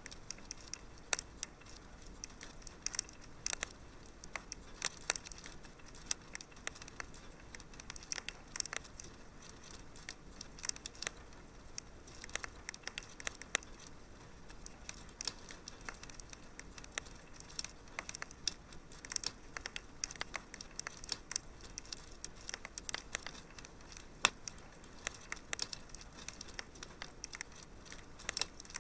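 Wood fire crackling in a fireplace, with irregular sharp pops and snaps over a low steady hiss.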